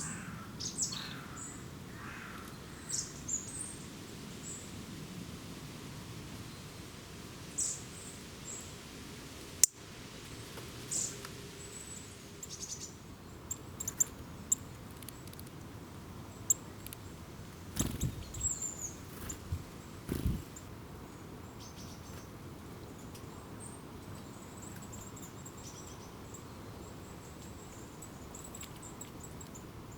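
Small birds calling with short, high chirps scattered through, and a thin high twittering in the second half, over a steady background hiss. A sharp click about ten seconds in and a few low thumps a little past the middle.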